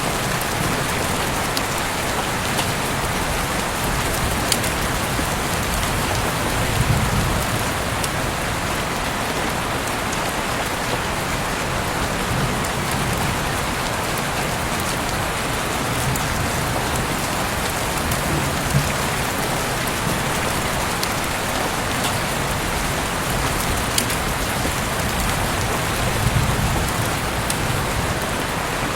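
Heavy rain falling steadily, heard through an open window: an even hiss of rain with scattered sharp drop impacts and a few brief low swells.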